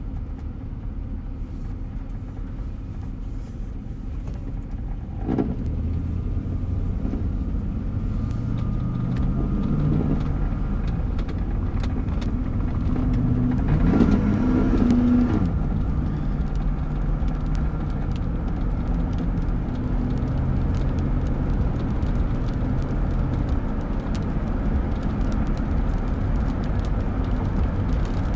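Car engine and road noise heard from inside the cabin while driving, with the engine pitch climbing and falling a couple of times as the car speeds up near the middle.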